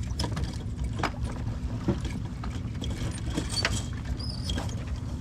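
Sailboat under way downwind, with a steady low rush of wind and water, scattered sharp clicks and ticks from the boat's gear, and a couple of brief high squeaks about three and a half and four and a half seconds in.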